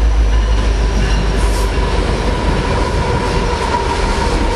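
Union Pacific diesel locomotive heading a double-stack container freight train as it approaches and passes, with a heavy low engine rumble and a steady high whine from the wheels on the rails.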